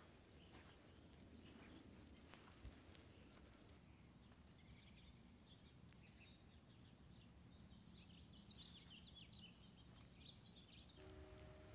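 Near silence with faint bird chirps through the second half, and two sharp clicks a few seconds in.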